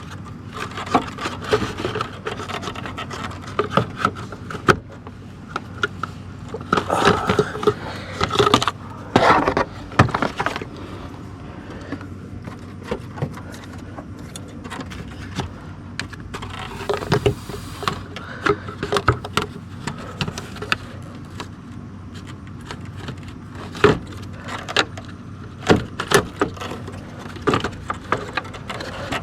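Irregular metallic clinks, knocks and scrapes of hand tools and car parts being handled during work on a car's radiator fan assembly, over a steady low background hum.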